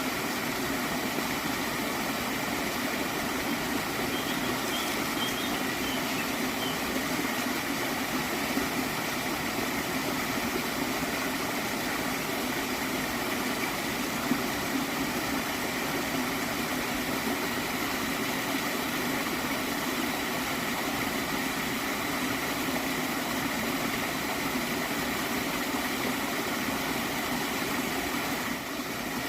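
Gently flowing stream of water, a steady gurgling rush that keeps an even level throughout.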